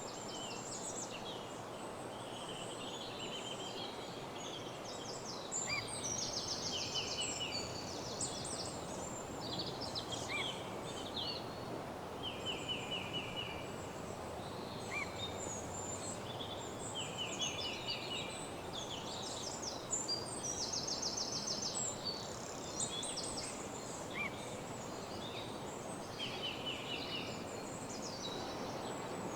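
Several songbirds singing in a woodland dawn chorus: overlapping fast trills of rapidly repeated notes and short high chips and sweeps, over a steady background hiss.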